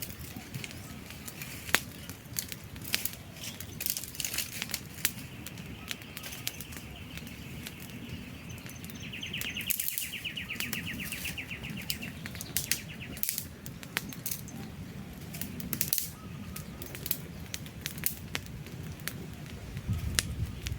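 Wood campfire burning: a steady low rush of flame with frequent sharp crackles and pops from the logs. A rapid, high trill runs in the background for a few seconds around the middle.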